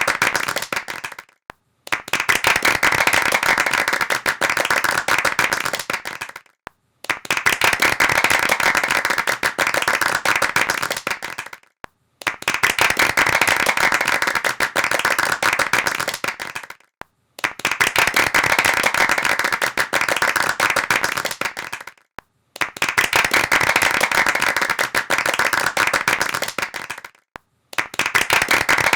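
Hands clapping rapidly, applause-like, in repeated bursts of about five seconds, each cut off by a brief silence before the next starts.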